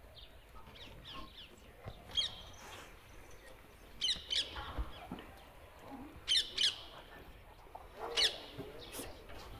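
Bird calls: short, sharp high calls every couple of seconds, often two in quick succession, over a low outdoor background.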